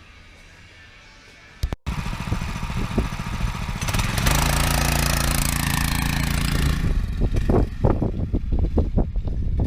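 Small single-cylinder 6.5 hp Lifan engine on a home-built fat-tyre dirt bike running hard under throttle, with wind rushing over the microphone. It cuts in suddenly about two seconds in after a quieter stretch. From about seven seconds it turns choppy with irregular knocks and gusts.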